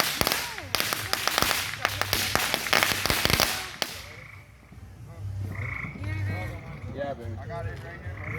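A string of firecrackers going off in a rapid, dense crackle that stops abruptly about four seconds in. Fainter voices and a low hum follow.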